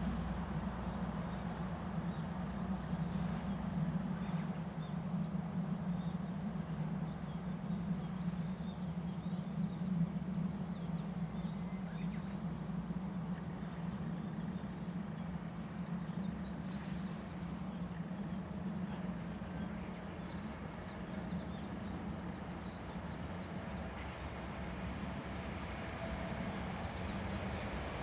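Steady low rumble of rail traffic with sparse bird chirps. Near the end an approaching train grows louder as it nears.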